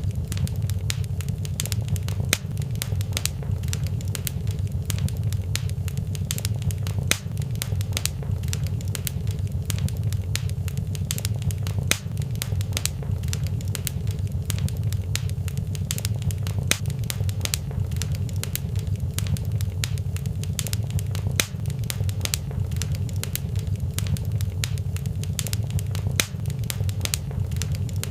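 Fire crackling in a fireplace: frequent, irregular sharp pops and snaps over a steady low rumble.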